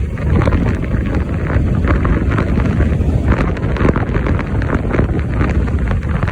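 Heavy wind buffeting the microphone of a moving bike, a steady low rumble with irregular gusty flutter.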